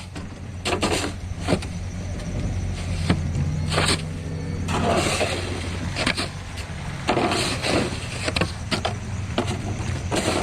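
Pickup truck engine idling steadily, with a dozen or so short, irregular bursts of rustling or scraping noise over it.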